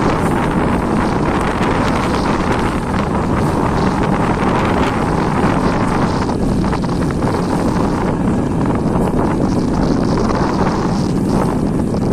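Passenger train running, a steady noise with heavy wind buffeting on the microphone.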